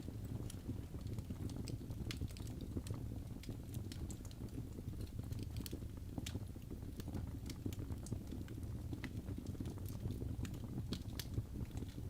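Wood fire burning in a fireplace, crackling with many small irregular pops over a low, steady rumble.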